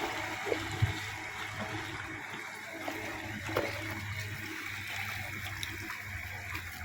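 Water sloshing and splashing, with a steady low hum underneath.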